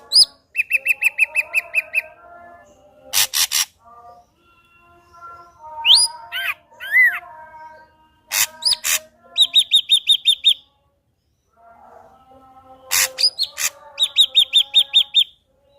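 Ashy drongo singing a varied, loud song: harsh scratchy notes, rapid trains of short clipped notes at about seven a second, and whistles that slide up and down, in phrases with short pauses between them.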